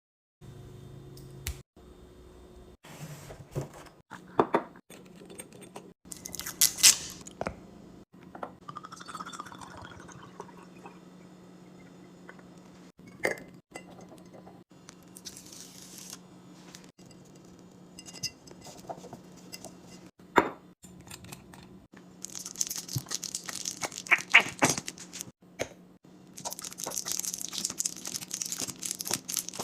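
Food containers and packaging being handled while restocking a fridge: repeated clinks of glass and plastic and knocks as items are set down, and longer spells of plastic packaging rustling near the end, over a steady low hum.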